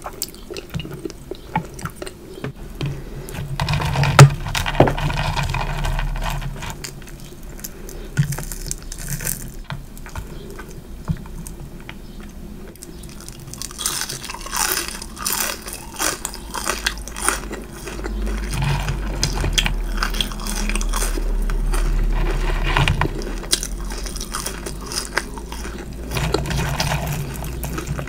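Close-miked eating: a person biting and chewing food, with crunchy bites and wet mouth sounds.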